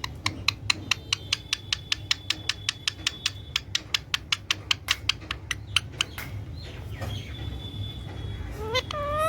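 Pet parrot making a fast, even series of sharp clicking chirps, about five a second, which stop about six seconds in; a short rising call follows near the end.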